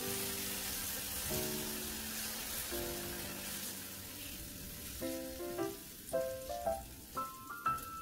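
Hot soy-glazed Spam cubes sizzling as they slide from a frying pan onto a metal tray, the sizzle fading about halfway through. Background music plays throughout and takes over in the second half.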